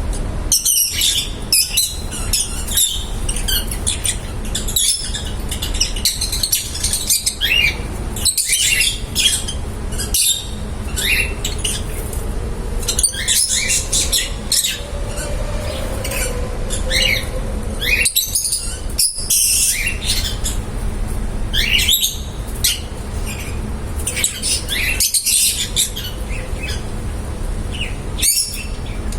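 Small pet love birds chirping and squawking continuously: many short, high calls overlapping throughout, over a steady low hum.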